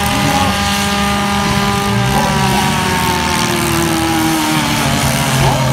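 Several four-cylinder demolition-derby cars' engines revving hard together, their pitches rising and falling against each other.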